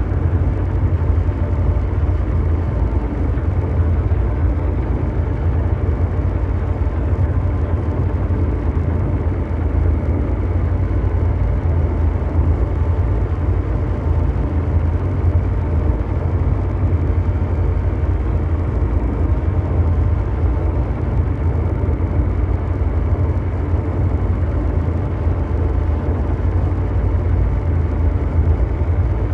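Ambient mechanical drone noise: a steady deep engine-like rumble, heaviest in the bass, under a brown-noise hiss with a few faint held tones. It stays unchanged, with no separate events.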